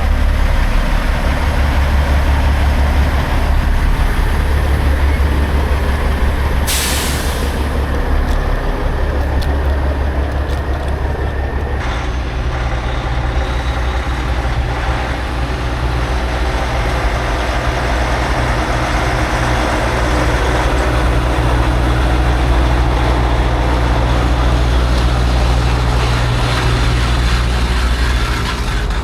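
Semi-truck diesel engine running with a steady deep rumble, and a short air-brake hiss about seven seconds in.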